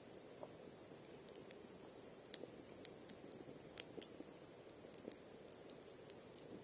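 Wood campfire crackling: irregular sharp pops and snaps over a faint low hiss, one pop near the middle louder than the rest.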